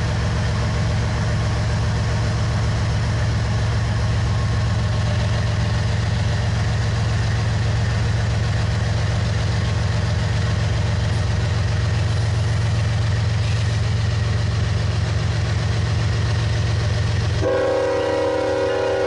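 Diesel freight locomotives passing slowly, their engines a steady deep rumble. About a second and a half before the end, a multi-chime air horn starts sounding a steady chord and the engine rumble drops away.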